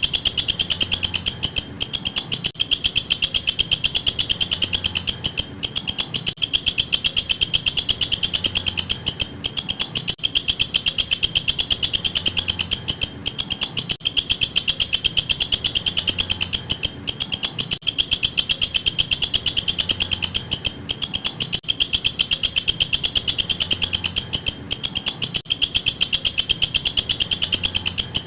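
Walang kecek insect stridulating: a loud, high-pitched rapid ticking trill that runs on steadily, broken by short pauses every few seconds.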